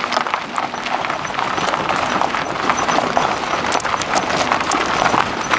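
Freshly swapped Mazda 13B six-port rotary engine running unevenly, a loud dense crackle of irregular pops, with the ignition timing not yet set.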